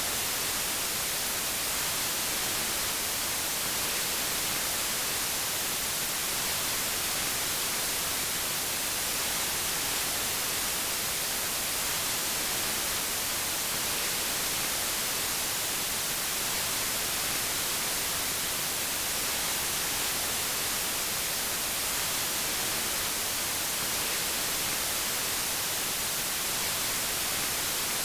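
Steady, unchanging white noise: an even hiss that is brightest in the high pitches, with no events or variation.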